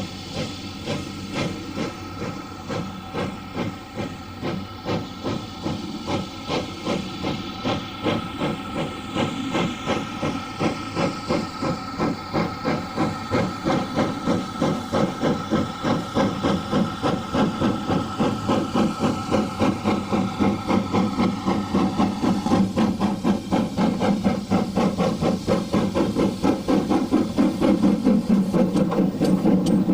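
Steam locomotive working a train, its exhaust beats and hiss speeding up steadily from about two to about four a second as the train gathers speed.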